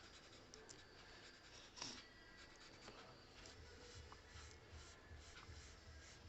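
Pencil scratching on paper in short, faint strokes, with one stronger stroke about two seconds in.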